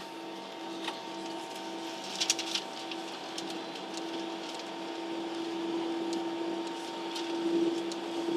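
Steady drone inside an airliner cabin on the ground, a constant hum with a steady low tone. A few sharp clicks about two seconds in are the loudest thing.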